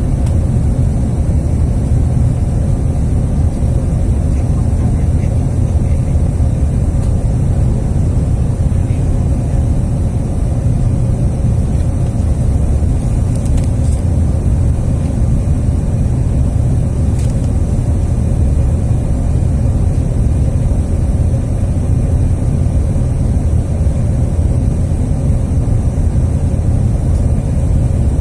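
Bombardier CRJ1000 jet airliner on approach: a steady, unbroken low rumble of its rear-mounted General Electric CF34 turbofans and the airflow, with a faint steady hum.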